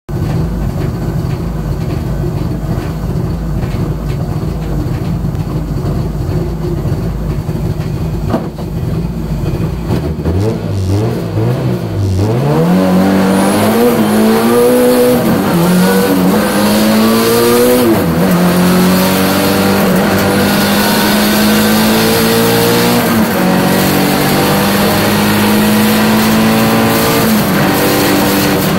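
Toyota Celica race car's engine heard from inside the cabin: running steadily on the start line, then launching about ten seconds in and accelerating hard. The pitch climbs and drops back with each of several upshifts.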